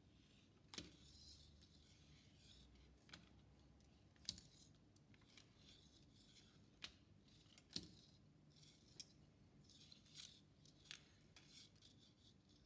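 Faint handling sounds: about eight short, sharp clicks or snips spaced irregularly a second or so apart, with light rustling between them.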